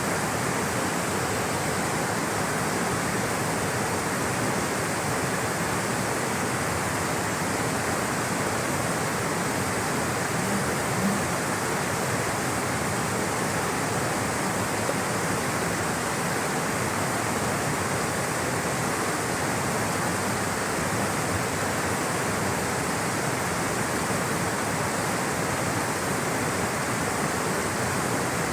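Flowing water rushing steadily, an even full hiss without breaks.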